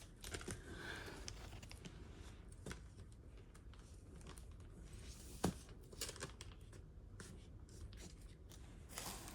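Faint rustling and light taps of comic books and their plastic blind bags being handled, with one sharper tap about five and a half seconds in.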